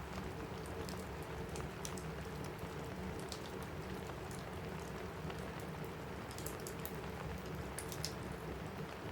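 Steady rain falling on a cabin roof, an even hiss with scattered small sharp ticks throughout.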